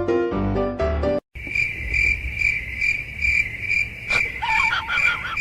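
Piano-like music for about a second, cut off abruptly. Then comes a steady high chirping, repeating about twice a second, like crickets at night, with a click about four seconds in and a few short squeaking chirps near the end.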